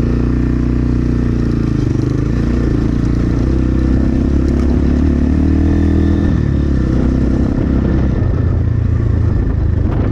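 Templar X 250 dirt bike engine running at low trail speed, its pitch shifting with small throttle changes, with wind noise across the microphone.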